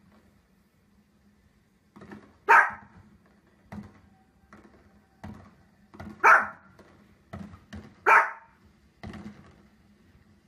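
A small dog barking three times, single sharp barks a few seconds apart, with fainter pops and thuds of fireworks playing from a television between them.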